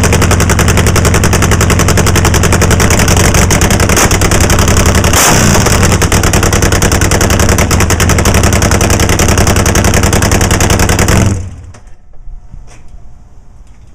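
Nitro-burning Harley V-twin drag bike engine running loud with a rapid staccato firing. Its pitch dips and comes back up about five seconds in, and it cuts off suddenly about eleven seconds in, followed by faint ticks.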